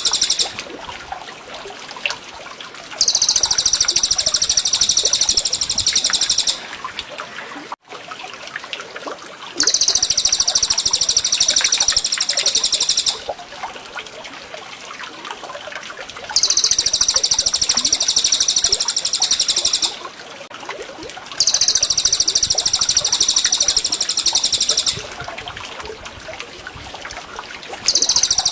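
Bird-song master recording of cililin and cucak jenggot over trickling water. A high, fast, rolling song comes in loud bouts of about three and a half seconds, repeating every six or seven seconds. Between bouts, softer water babbling with scattered chirps carries on, and a brief dropout comes about eight seconds in.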